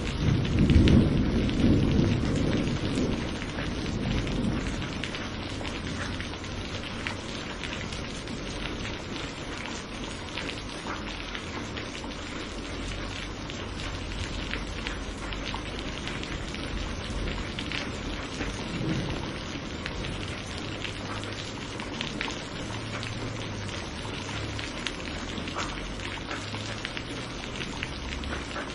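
Steady heavy rain, with the pattering of individual drops through it. A roll of thunder rumbles about a second in and dies away over the next few seconds. A fainter rumble of thunder comes about two-thirds of the way through.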